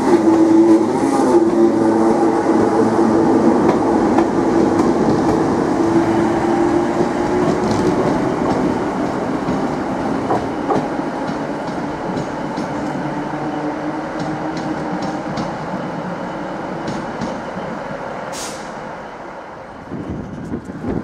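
Northern Class 319 electric multiple units moving through the station: a steady hum that fades over the first several seconds as one pulls away, then a run of wheel clicks over the rail joints, with a short hiss near the end.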